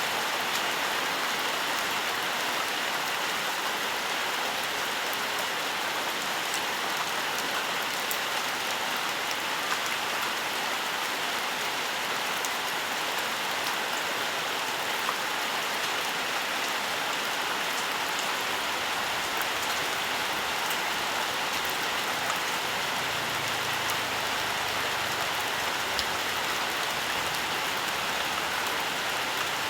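Steady, gentle rain falling in a forest, a dense even hiss with scattered individual drops ticking on surfaces.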